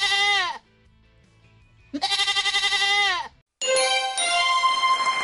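Goat bleating: the end of one wavering bleat, then a second bleat about two seconds in, lasting over a second and falling in pitch at its end. A short musical jingle of steady tones starts after about three and a half seconds.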